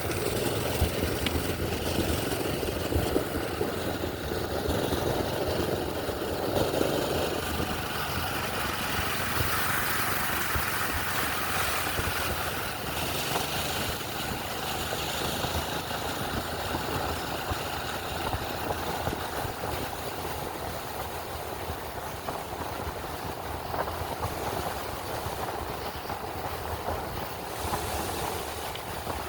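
Steady rush of wind and rolling noise while riding, with a minibike's small engine running underneath.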